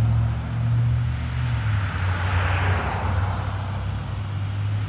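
Mobility scooter's electric motor giving a steady low hum, with a swell of rushing noise about two to three seconds in.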